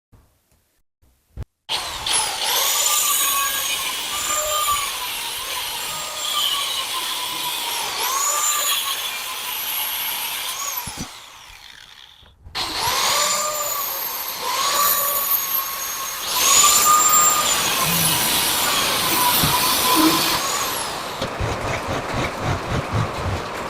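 A power tool running in long spells, its whine dipping and rising in pitch again and again as it is loaded. It stops briefly about halfway through and starts again.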